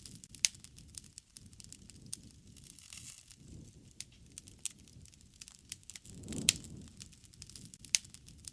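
Wood fire crackling, with sharp pops at irregular moments and a soft low rush of burning that swells about six seconds in.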